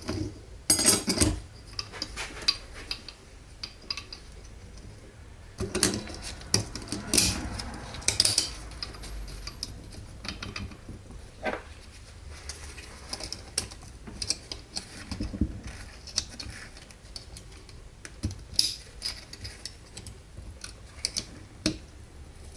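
Metal parts clinking and knocking as they are handled, in irregular clicks with a few louder knocks about a second in and again around six to eight seconds in.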